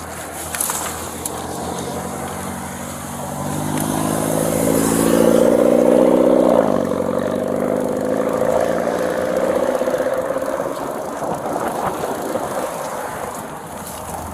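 A motor vehicle passing close by: its engine hum builds, drops in pitch as it goes past, and fades away.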